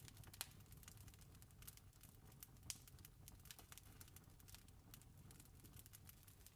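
Wood fire crackling: irregular sharp pops and snaps, two of them louder, about half a second in and near three seconds in, over a soft steady low rumble.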